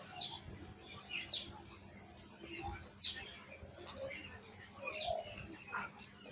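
Birds chirping: a sharp, quickly falling chirp repeats about every one to two seconds, with softer chirps in between.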